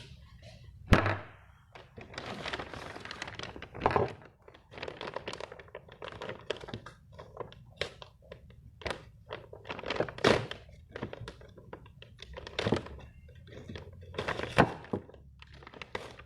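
A series of irregular knocks and thuds in a small room, the loudest a sharp one about a second in, with several more strong ones spread through.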